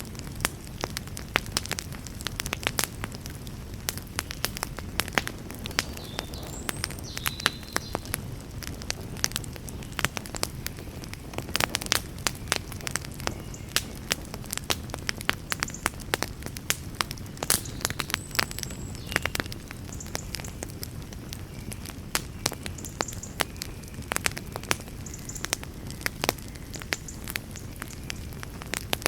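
Wood fire crackling and popping: irregular sharp snaps, several a second, over a steady low rumble of burning.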